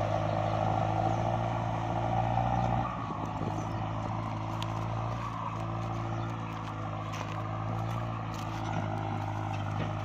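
Kubota MU5702 tractor's diesel engine running steadily while ploughing, its sound dropping a little about three seconds in.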